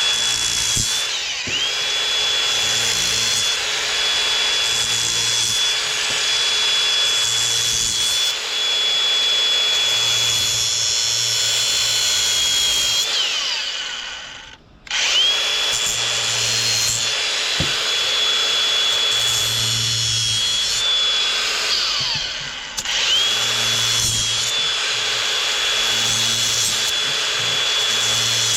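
Electric power tool motor running at a steady high speed with a constant whine, stopping for a moment about halfway through and then starting again.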